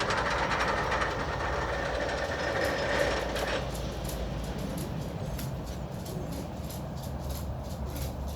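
Roller coaster test train on its lift hill and crest, a steady fast mechanical clatter. The clatter drops off about three and a half seconds in, leaving a quieter, lower rumble of the train on the track.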